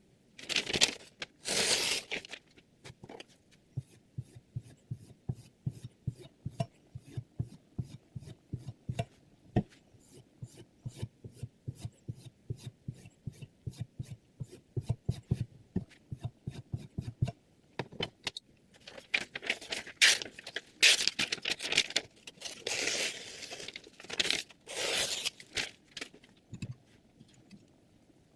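Sharpening stone scraping along the steel edge of a chef knife held in a guided sharpening system: two long strokes, then a long run of quick, short clicking strokes, then several longer, louder scraping strokes near the end.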